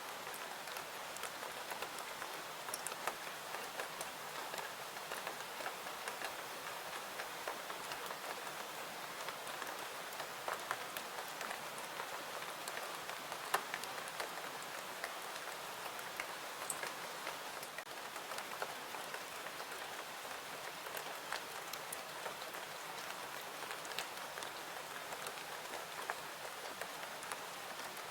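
Steady rain falling, an even hiss dotted with many small sharp ticks.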